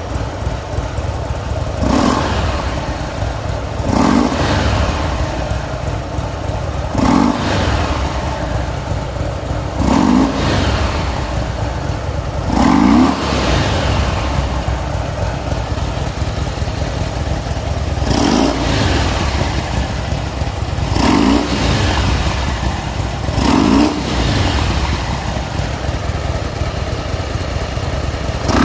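Fuel-injected Harley-Davidson FXDL Dyna Low Rider 1450's V-twin engine idling and being revved with short throttle blips, about nine over the stretch, each rising quickly and falling back to idle. It revs up and drops back cleanly and responsively, with no bogging, the sign of an engine in good running order.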